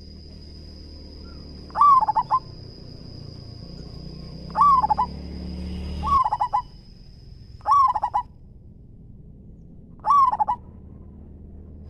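Zebra dove (perkutut) cooing: five short, loud, stuttering coo phrases, each under a second, spaced two to three seconds apart. A thin steady high whine runs underneath and stops about eight seconds in.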